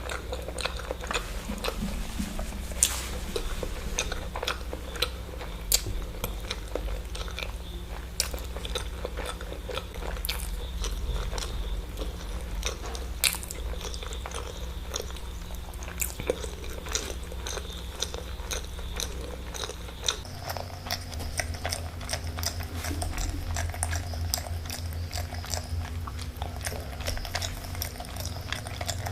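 Close-miked chewing and biting of eggs, with wet mouth clicks and smacks coming irregularly throughout.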